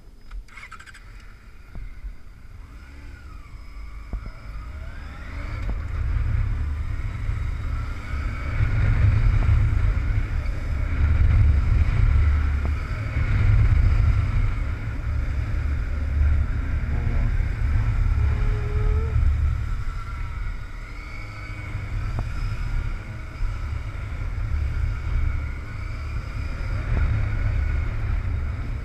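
Motorcycle engine running at a steady throttle in second gear through a back-and-forth steering drill, its pitch wavering a little. A heavy, uneven wind rumble on the microphone grows louder a few seconds in.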